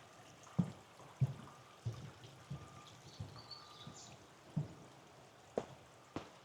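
Footsteps of a person walking at a steady pace, about three steps every two seconds, with two sharper clicking steps near the end.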